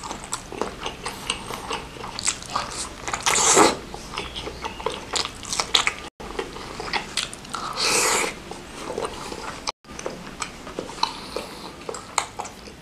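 Close-miked eating: chewing a sinewy beef meatball (bakso urat) with many wet mouth clicks and smacks. Two louder slurps come about three and a half and eight seconds in.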